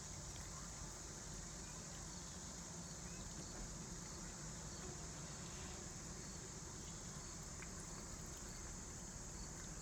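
Faint, steady high-pitched drone of insects chirping, with a soft low rumble underneath.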